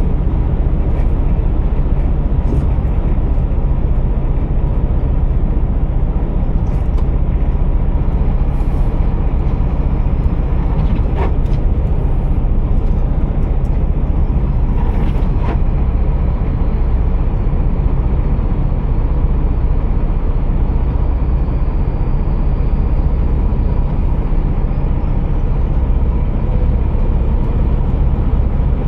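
Scania R480 heavy truck's diesel engine running with a steady low drone. Two brief clicks sound around the middle.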